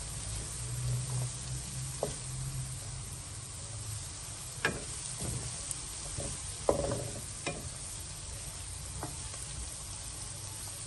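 Diced onion and carrot sizzling in butter in a wok while a wooden spatula stirs and scrapes them. A few sharper knocks of the spatula against the pan stand out, the loudest a little past the middle.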